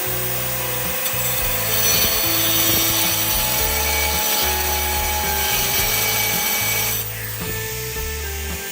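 A power tool running steadily over background music. About seven seconds in, it is switched off and its pitch falls as it winds down.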